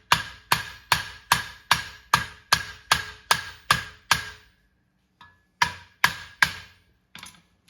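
Hand hammer striking a hot steel horseshoe over the horn of an anvil, ringing metallic blows at a steady two and a half a second for about four seconds, then a short pause and three more blows. The farrier is tapping flat the frog eyes, the bulges left around freshly punched nail holes.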